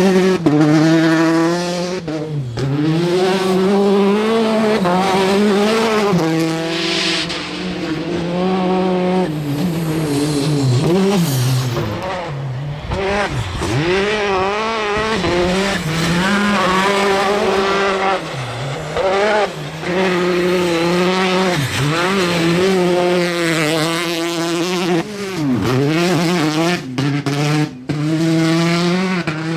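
Citroën DS3 R5 rally car's turbocharged 1.6-litre four-cylinder engine driven hard, its revs climbing and falling over and over with sharp drops every few seconds as it changes gear and lifts.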